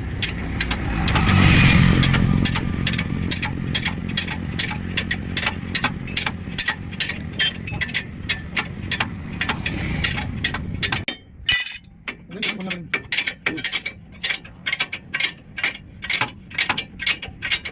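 An engine running, swelling briefly near the start and cutting off suddenly about eleven seconds in, under a steady mechanical clicking, about three clicks a second, that carries on after the engine stops.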